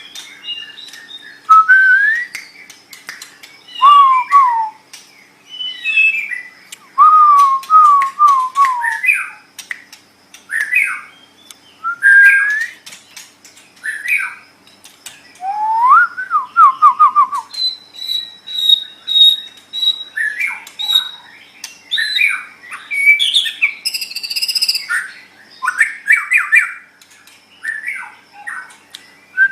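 White-rumped shama (murai batu) singing a string of loud, varied whistled phrases, with quick rising and falling notes. About two-thirds of the way through it holds one high whistle for a couple of seconds, and a harsh, scratchy phrase follows soon after.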